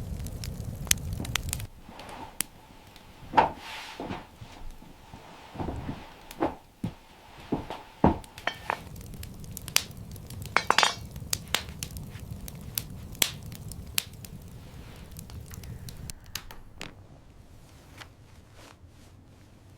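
Irregular sharp knocks, clinks and crackles, one every half second or so, over a low rumbling noise that drops away about two seconds in and returns in the middle.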